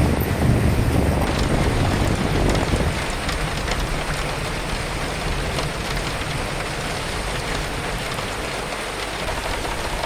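Steady rain falling, with scattered sharp drop ticks, and wind. A low wind rumble is strong for the first few seconds and then eases.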